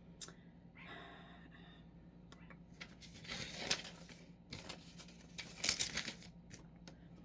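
Rustling and crinkling in several bursts, the loudest between about three and six seconds in, with a few light clicks over a low steady hum.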